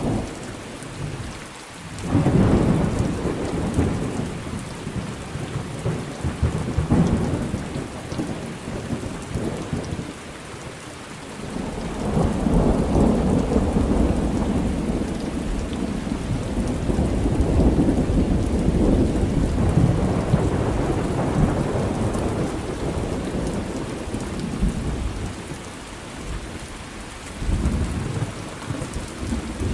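Thunderstorm: steady rain falling, with thunder rumbling underneath. A sudden peal comes about two seconds in, a long rolling rumble swells and fades through the middle, and a shorter one comes near the end.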